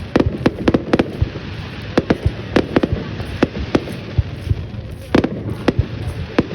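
Aerial fireworks bursting in a display: many sharp bangs at irregular intervals, a few each second, over a continuous din of more distant bursts.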